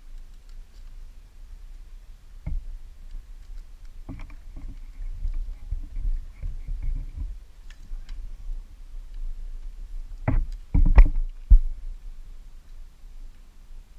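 Scattered knocks and clunks of hand tools and handling during a motorcycle repair, over a low steady rumble. A cluster comes about four to seven seconds in, and the loudest knocks come near eleven seconds.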